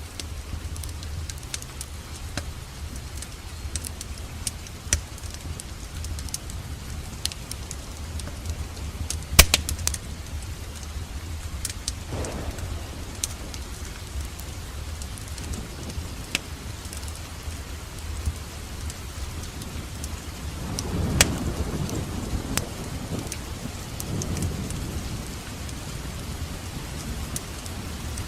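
Wood fire crackling in a fireplace: a low steady rumble of flames with scattered sharp pops, one loud pop about nine seconds in, and a brief swell of louder crackle about two-thirds of the way through.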